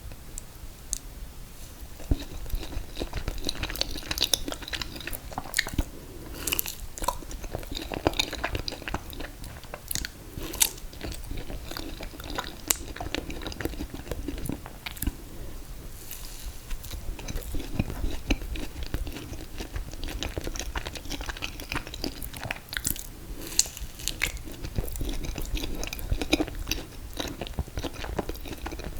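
Close-miked eating of ice cream cake: steady chewing with many wet mouth clicks and smacks, starting about two seconds in.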